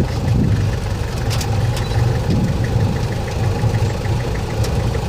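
Safari jeep's engine idling steadily: a low, pulsing hum with a fast, even ticking over it.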